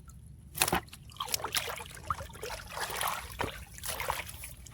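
Shallow muddy rice-field water splashing and sloshing irregularly as fish are grabbed by hand, with a sharp slap under a second in.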